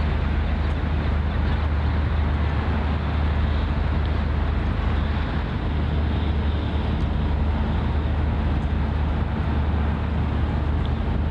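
Steady low engine drone of a ship, with a constant rushing wash of noise over it.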